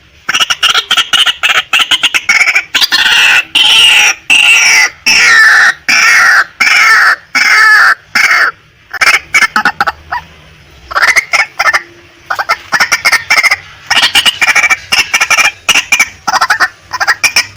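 Female white-breasted waterhen calling: fast runs of short repeated notes in loud bursts, many of them falling in pitch, with brief pauses, the longest about ten seconds in.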